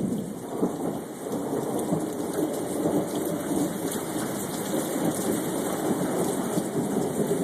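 Heavy rain falling steadily during a thunderstorm, with thunder rumbling under it.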